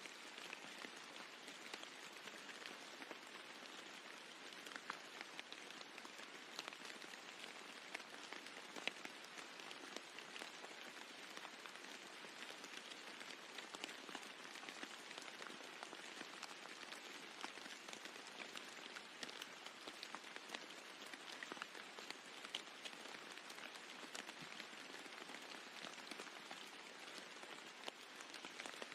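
Steady rain falling on a roof, an even patter with many individual drops ticking through it.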